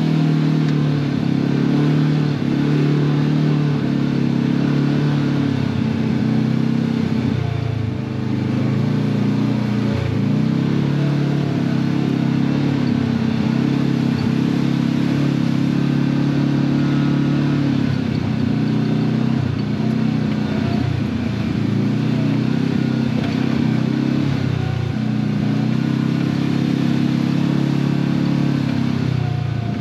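Side-by-side UTV engine running on a rough trail, its pitch rising and falling again and again as the throttle is worked.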